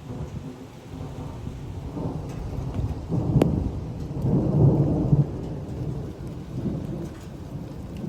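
Thunder rumbling in a severe thunderstorm, swelling to its loudest between about three and five seconds in with a sharp crack near its start, over steady falling rain.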